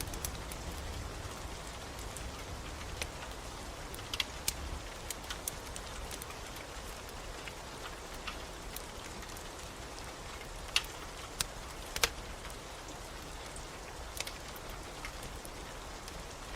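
Steady rain hiss with the scattered sharp pops of a crackling wood fire, a few louder pops near the end. A low rumble fades out in the first few seconds.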